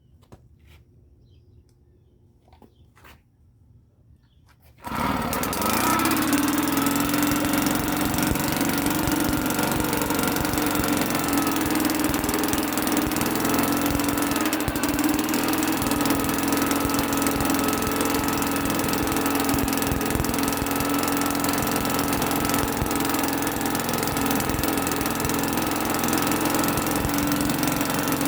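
A 1974 British Seagull 40 Plus long-shaft outboard's single-cylinder two-stroke engine starting from cold, empty carburettor. It fires suddenly about five seconds in after a few faint clicks, then runs steadily.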